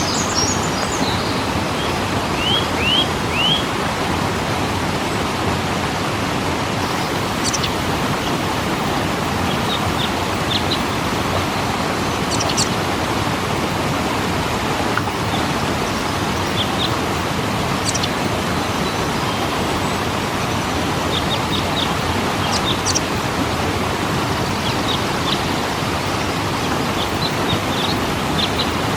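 Steady rush of a waterfall, with short, high bird chirps scattered through it.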